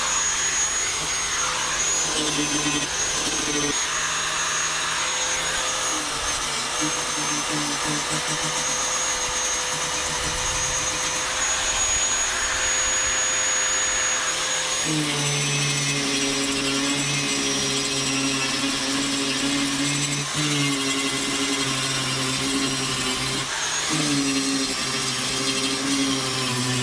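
WEN rotary tool with a diamond disc running and grinding, a steady motor whine whose pitch shifts several times as it bears on the work. It is grinding down high spots of cured silicone.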